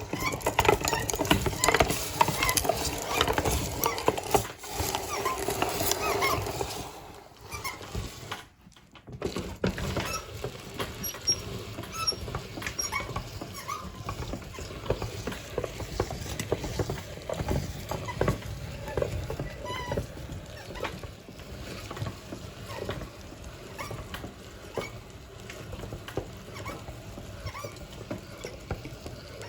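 Meat grinder crushing and pushing ice cream through: a dense, irregular crackling and clicking, louder at first, with a brief break about eight and a half seconds in.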